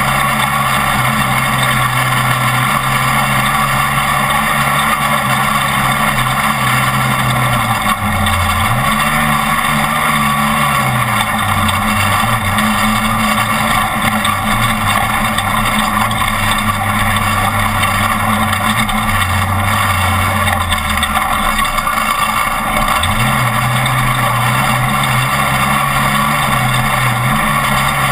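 Off-road race truck's engine running hard, over steady road and wind noise. Its note dips briefly about eight seconds in, falls to a lower pitch for a stretch, then climbs back up near the end as the throttle is eased and reapplied.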